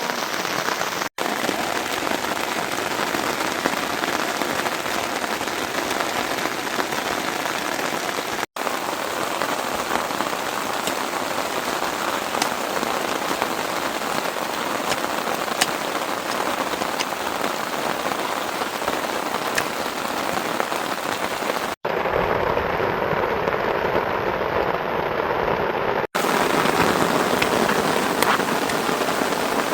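Steady heavy rain falling, a dense even patter. It drops out abruptly four times where recordings are joined, and one stretch near the end sounds duller.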